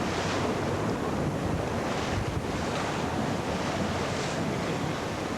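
Sea water rushing and splashing past a sailing yacht under way, with wind buffeting the microphone; the rush swells several times.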